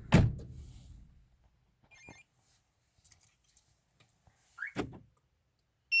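Audi 80 engine, running on the Tomahawk 9010 alarm's remote start, cuts out as the door is opened. A loud clunk comes first, then the hum dies away within about a second. Later come short high electronic beeps from the alarm, once about two seconds in and again at the very end.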